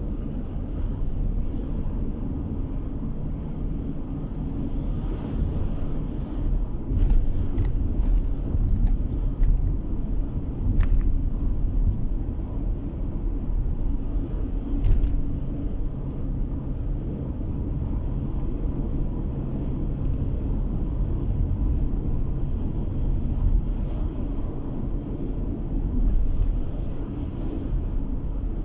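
Car driving on a road, heard from inside the cabin: a steady low rumble of tyre and engine noise, with a few short sharp knocks or clicks between about 7 and 15 seconds in.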